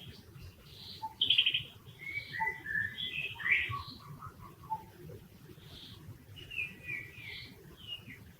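A series of short, high-pitched chirping calls, with a busier run of falling, whistled calls about a second into the clip and a few more chirps near the end.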